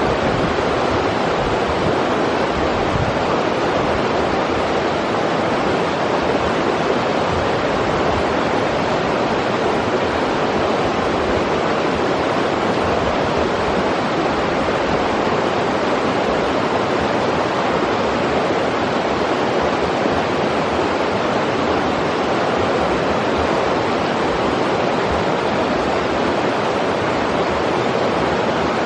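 River water rushing steadily over rocks, an even, unbroken roar of flowing water.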